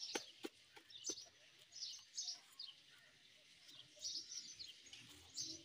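Birds chirping in short high bursts every second or so, with a couple of soft taps near the start.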